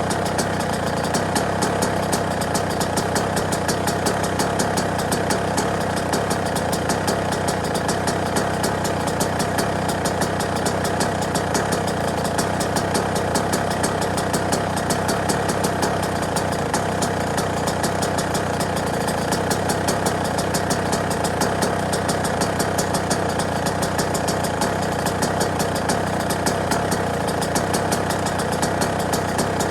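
Yamaha YZ125 two-stroke single-cylinder engine idling steadily, a fast even pulsing that holds the same pitch and level throughout.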